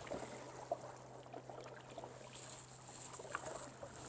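Kayak being paddled: faint splashes and drips of water from the paddle blade, with a few light clicks and one sharper tick just under a second in.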